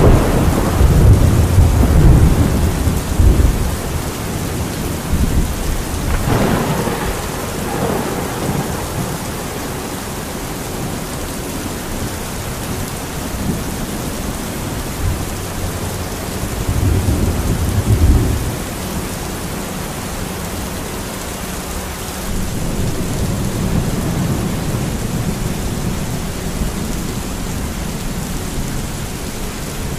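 Thunderstorm: steady rain with thunder rumbling several times, a long loud roll at the start and further rolls about six seconds in, a little past halfway, and from about three-quarters through.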